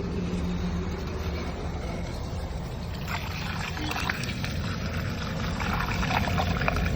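JCB 3DX backhoe loader's diesel engine running steadily, with scattered rattling and scraping of soil and stones from about three seconds in and a thin whine near the end.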